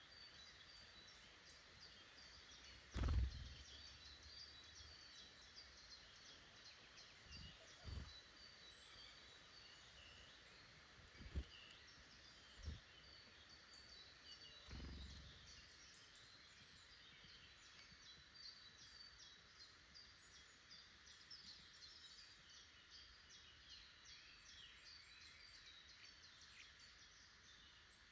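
Faint chirping and calling of small woodland birds, many short high notes overlapping throughout. A few dull low thumps break through, the loudest about three seconds in.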